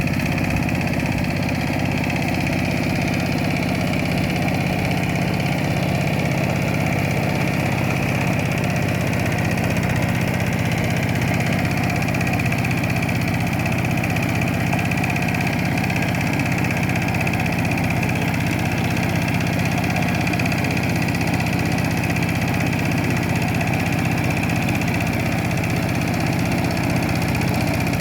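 Kubota K700 tractor engine running steadily at an even speed, with no revving.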